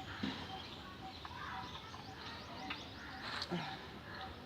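Birds chirping in the background, with a few sharp clicks, the loudest about three and a half seconds in.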